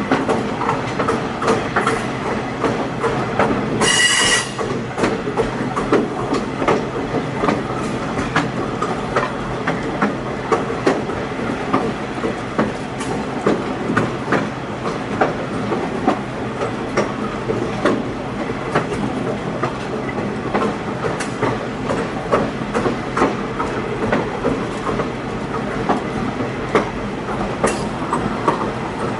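Railroad passenger car riding on the rails: a steady rumble of steel wheels on track, with frequent clicks and rattles at irregular spacing. A short, high wheel squeal comes about four seconds in.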